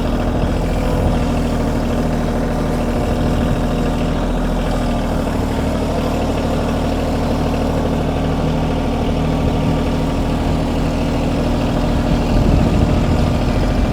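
Kioti compact tractor's diesel engine running steadily while the front loader is being worked.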